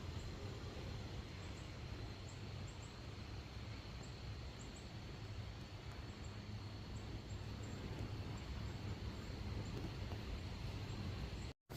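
Outdoor ambience: wind rumbling on the microphone, with a faint steady high whine and scattered faint short high chirps. The sound cuts out for a moment near the end.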